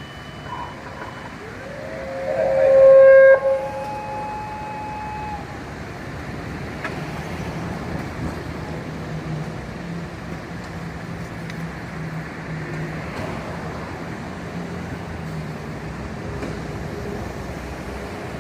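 Fire engine siren winding up in a rising wail, with a loud short blast about three seconds in, then holding a steady tone for a couple of seconds before cutting off. Afterwards only a steady low engine and traffic hum remains.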